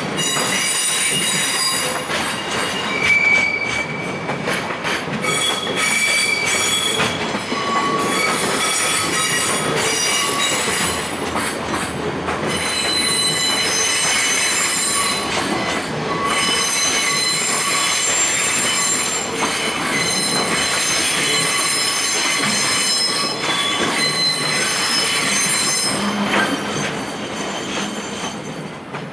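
Freight train's container wagons rolling slowly past, their steel wheels squealing in several shifting high-pitched tones over a steady rumble and some clatter over rail joints, as the train slows on arrival; the sound fades near the end.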